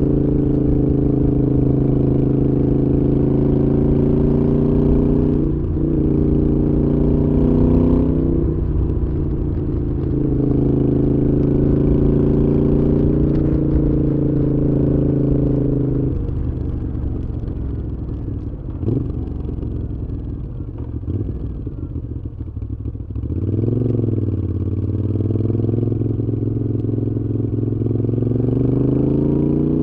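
Moto Guzzi V7's transverse V-twin through Mistral exhausts, pulling steadily under way, with two short breaks in the note about five and eight seconds in. From about sixteen seconds the engine drops to a lower, rougher note off the throttle, blips up and back down near twenty-three seconds, then pulls steadily again.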